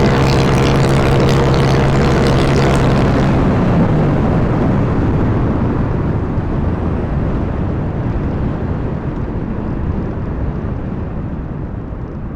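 Honda Wave 125 motorcycle's single-cylinder four-stroke engine running steadily under throttle, with heavy wind rush on the microphone. About three and a half seconds in, the engine note drops away and the wind rush carries on, gradually fading.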